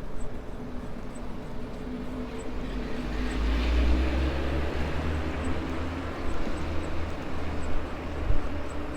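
Riding a Maxtron Mule folding e-bike: a steady rolling noise with wind rumbling on the microphone and a faint steady hum. The noise swells about halfway through, and there is a short knock near the end.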